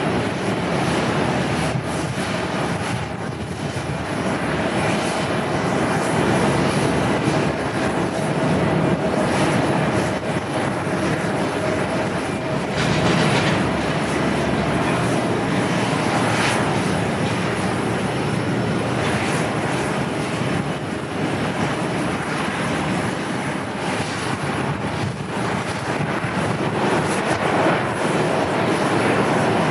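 Jet airliner engines during a landing, a steady loud rush of engine noise with a faint whine that holds for several seconds in the first half.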